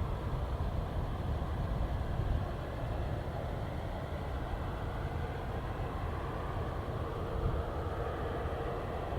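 Steady low rumble of a distant Boeing 767's jet engines, without sharp events.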